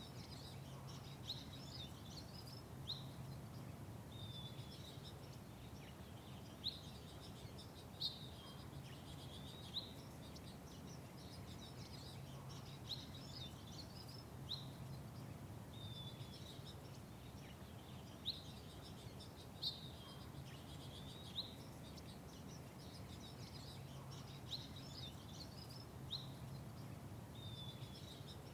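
Small songbirds chirping, short sharp high chirps repeated every second or two, over a steady low hum.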